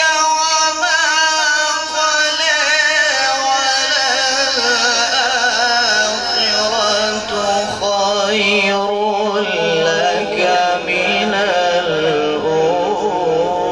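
A man's voice reciting the Quran in long, ornamented melodic phrases, the notes held and wavering in the tajweed style.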